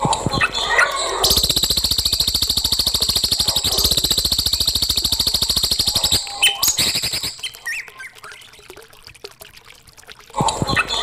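Recorded songbird singing a long, very fast, high trill, broken about six seconds in by a burst of varied chirps and quieter calls, with the trill starting again near the end. It is a birdsong master recording used to teach young caged songbirds to sing.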